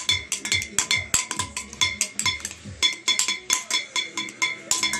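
Metal cooking pot beaten over and over, about three uneven strikes a second, each hit ringing with a clanging metallic tone.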